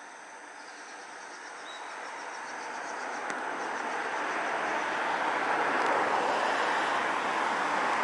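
A Chichibu Railway train approaching, its running noise growing steadily louder.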